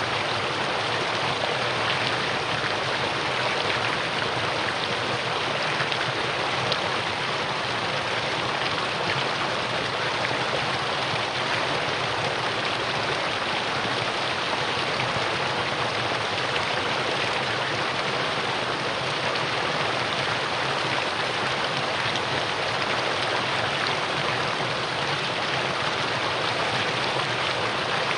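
Mountain valley stream running over rocks, a steady rushing and splashing of water.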